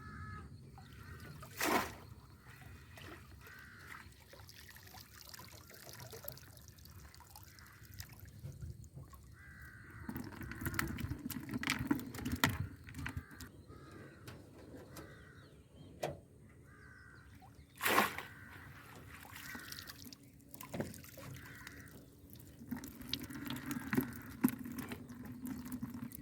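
Water splashing and trickling, with crows cawing now and then in the background. Two sharp knocks stand out, one about two seconds in and one about two-thirds of the way through.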